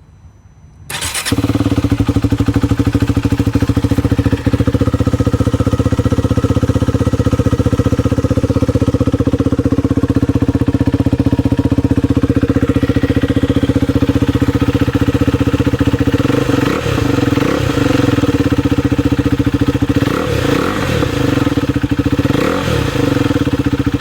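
Husqvarna Vitpilen 401's single-cylinder engine through a Coffman's Shorty exhaust, starting about a second in and then idling loud and steady. A few short throttle blips rise and fall in pitch in the last third.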